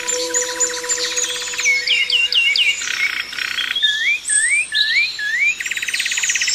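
Several songbirds singing together: series of quick sweeping chirps, some rising and some falling, mixed with fast buzzy trills, one phrase following another without pause.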